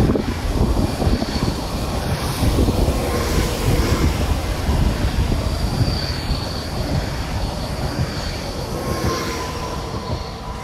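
A train rolling along the track: a steady rumble of wheels on rail with thin, high squealing tones from the wheels, easing off a little near the end.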